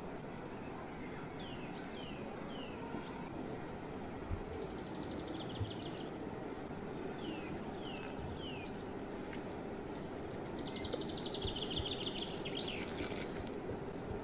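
A songbird singing a repeated phrase: a rapid high trill, then three short falling whistled notes, round and round, over a steady low hum. A couple of faint clicks sound a few seconds in.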